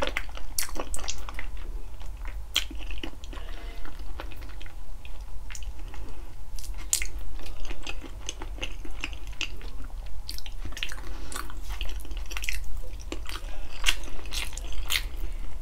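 Close-miked eating of braised pork feet: irregular chewing and biting, with many short wet clicks and smacks, over a steady low hum.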